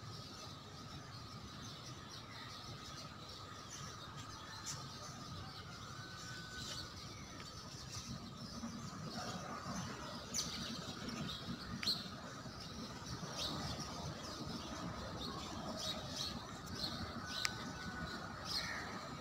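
Birds chirping: short, high calls scattered irregularly, with a couple of brief steady whistled notes, over a low background rumble that grows slightly louder about eight seconds in.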